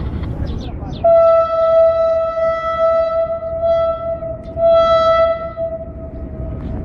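Locomotive horn sounding one long steady note, starting about a second in and held for about five and a half seconds, swelling louder twice.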